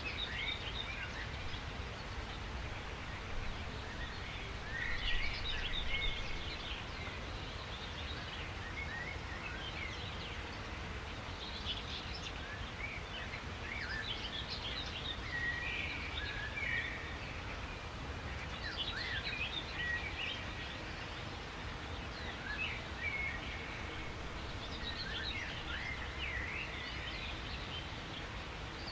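Several songbirds chirping and trilling in bursts every few seconds over a steady low background rumble.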